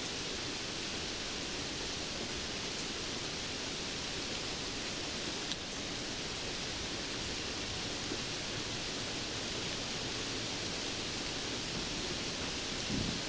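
Steady rainfall: an even hiss with no single drops standing out. A low rumble of thunder begins right at the end.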